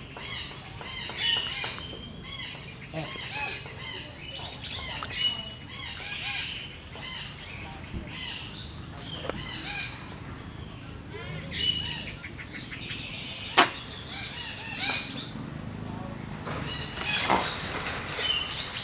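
Birds chirping and calling in short, high, repeated notes over a low background hum, with one sharp click about two thirds of the way through.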